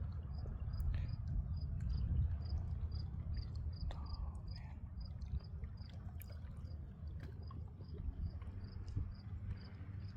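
An insect chirping steadily in short, evenly spaced high-pitched pulses, about three a second, over a low steady rumble.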